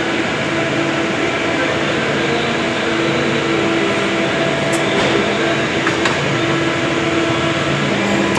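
A motor-driven machine running steadily, with a constant hum held under an even noise.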